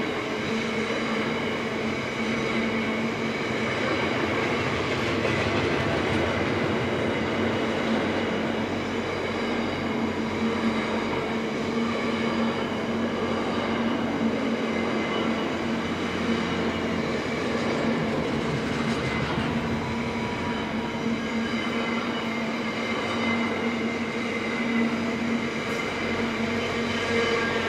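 Intermodal container train's loaded well wagons rolling steadily past at close range: a continuous rumble and clatter of steel wheels on the rails, with a few steady humming tones from the wheels held throughout.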